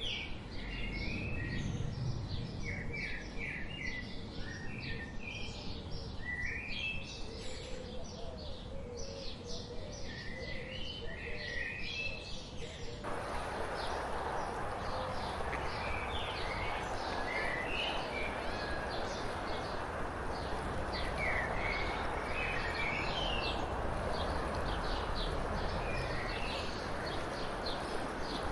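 Songbirds chirping and singing in many short, quick notes. About halfway through, a steady hiss comes up under the calls.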